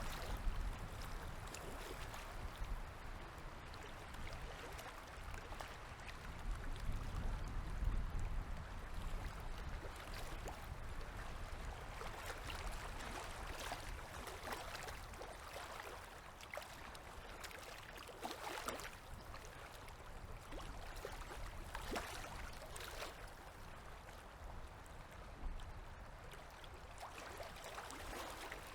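Small river waves lapping and gurgling at the water's edge, with many small splashes and clicks through a steady wash of water. A low rumble comes and goes in the first few seconds.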